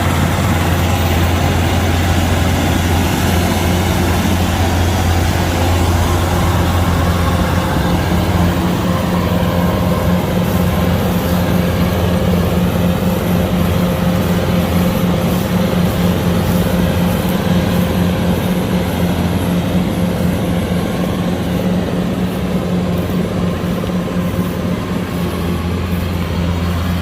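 Kubota DC-105X combine harvester's diesel engine and machinery running steadily. The engine note changes a few seconds in and returns near the end.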